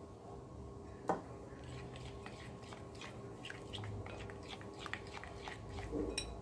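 Spoon stirring soy sauce into a wet flour batter in a mixing bowl: faint soft squelches and small clicks, with one sharper knock of the spoon about a second in.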